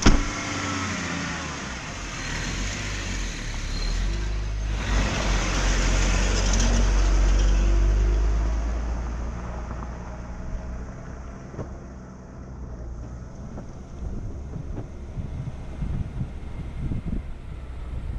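A Jeep driving, its engine and road rumble building over the first several seconds and then easing off.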